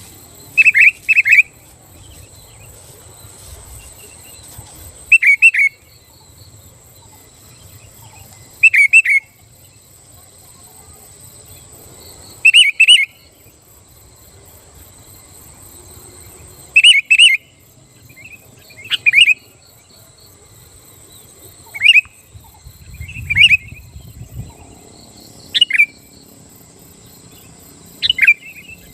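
Sooty-headed bulbul (kutilang) calling: short, loud bursts of two or three quick whistled notes, repeated every few seconds. A faint steady high-pitched buzz runs underneath.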